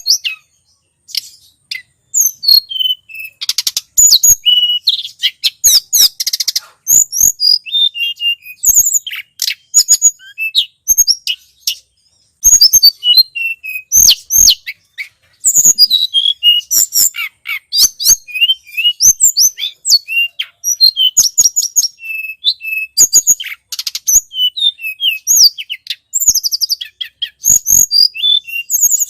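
Tledekan gunung singing in rapid, high-pitched chirps and short sweeping notes and trills, with a few brief silent breaks.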